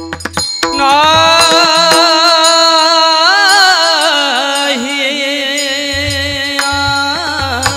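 Devotional kirtan singing: one voice sings long, wavering, ornamented notes over a steady drone, with repeated percussion strokes.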